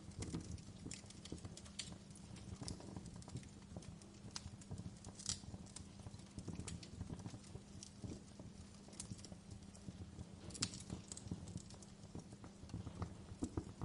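Wood fire crackling in a fireplace: irregular sharp pops and snaps over the low rumble of the burning logs, with a faint steady low hum underneath.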